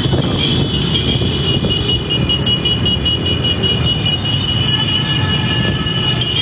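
Steady motor vehicle and road noise, a continuous low rumble with a thin high whine held throughout.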